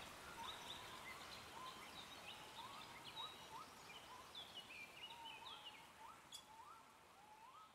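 Faint bird chirps: short rising calls repeating every half second or so, fading out toward the end, with a single click about six seconds in.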